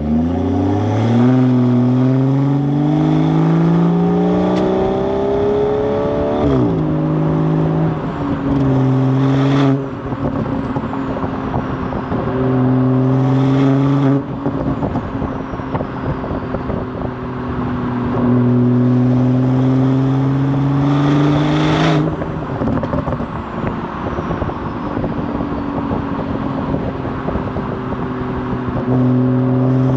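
BMW Gen 1 B58 turbocharged straight-six exhaust with a tuned burble setting. The engine revs up over the first few seconds and is then held at steady higher revs three more times. A sharp crackle comes as each hold is released, and the revs rise again near the end.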